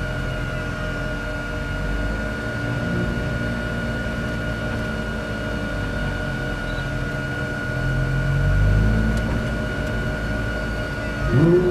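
Lamborghini Super Trofeo race car's V10 engine heard from inside the cockpit, running at low revs while the car rolls at walking pace. It swells a little about two-thirds of the way in and gives a short rising rev near the end. A steady high whine sits under it.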